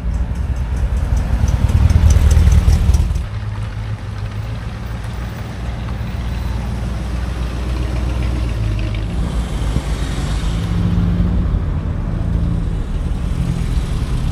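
A vehicle engine running, louder for about the first three seconds, then suddenly quieter and steady.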